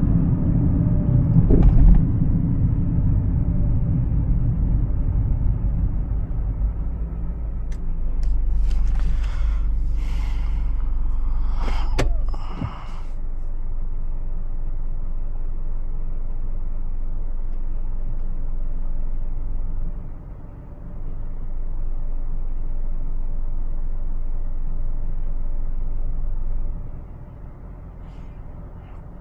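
Honda CR-V driving: a steady low rumble of engine and road noise, with a few short sharp noises about nine to thirteen seconds in. The rumble becomes quieter near the end.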